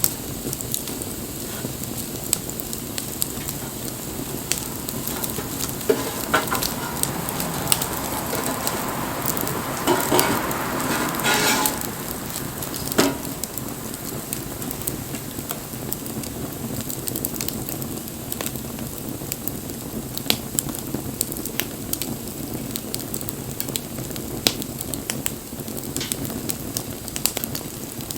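Wood fire burning: a steady hiss with frequent sharp crackles and pops scattered throughout, and a louder rushing hiss about ten seconds in that lasts nearly two seconds.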